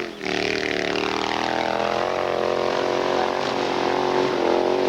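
Hillclimb motorcycle engine running at high revs, its pitch wavering slightly up and down.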